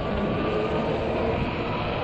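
Steady rumbling ride noise of a fat-tire e-bike rolling over snowy, slushy pavement, with a faint steady whine on top.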